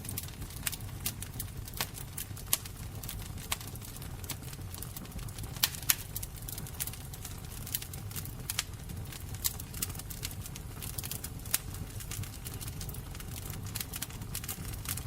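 Fire crackling: irregular sharp snaps and pops, a few louder than the rest, over a low steady rumble.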